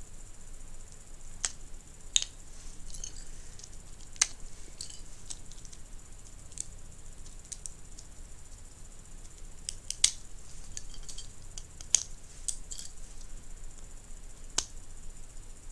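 Lego bricks being pulled apart and handled: irregular sharp plastic clicks and snaps every second or two, a few of them loud.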